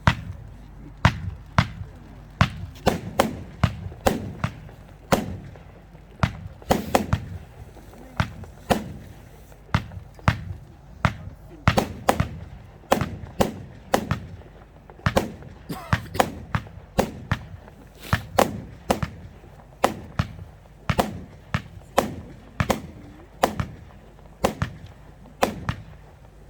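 Evolution Fireworks 'Winterfeuer' firework battery firing shot after shot, a sharp bang about twice a second, each dying away briefly.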